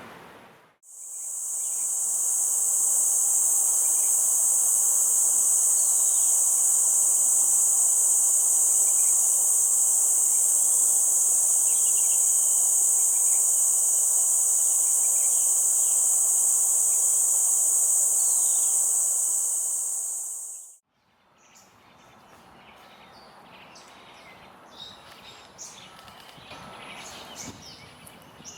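A loud, steady, high-pitched insect drone that swells in near the start and cuts off abruptly about twenty seconds in, with faint bird calls beneath it. After it stops, quieter scattered bird chirps are heard.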